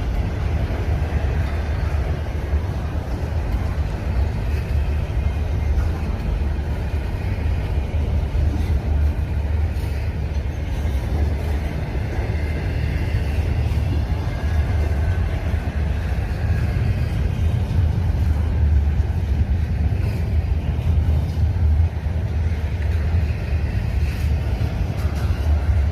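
A long CPKC freight train rolling past, a steady heavy rumble of wheels on rail, with faint high tones wavering above it now and then.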